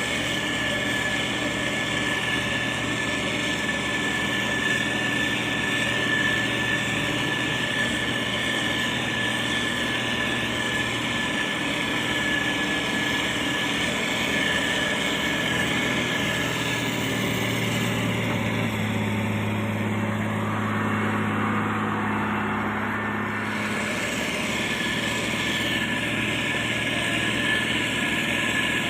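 Motor grader's diesel engine running steadily, with a steady high whine over the engine note. About two-thirds of the way through, a deeper engine tone grows stronger for about five seconds, then drops back.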